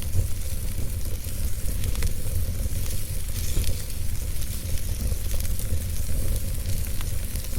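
Wood fire burning, with a steady hiss and low rumble and scattered sharp crackles and pops, two of them more distinct about two seconds in and near the end.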